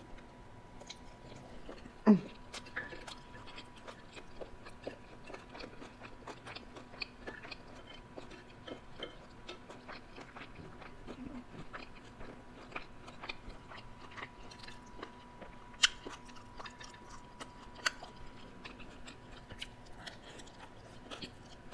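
Close-up chewing and mouth sounds of a person eating shredded cabbage slaw: soft crunches and a steady run of small wet clicks, with a louder falling sound about two seconds in and a few sharper clicks later on.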